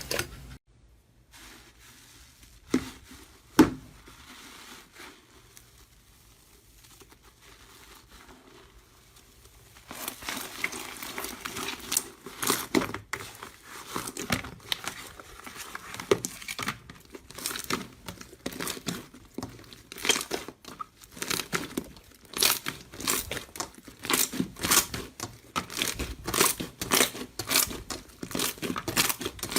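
Crunchy material being crushed, heard as dense crackling and crunching with many sharp snaps. The first ten seconds are quieter, with two sharp clicks, before the crunching starts.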